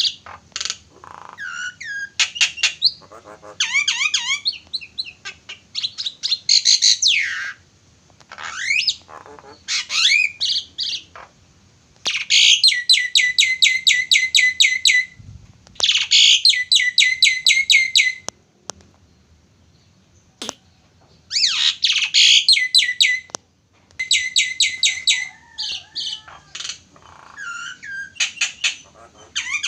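A jalak (starling) singing a loud, varied song of whistled and harsh notes, broken by rapid runs of one note repeated many times a second, each run lasting one to two seconds, with short pauses between phrases.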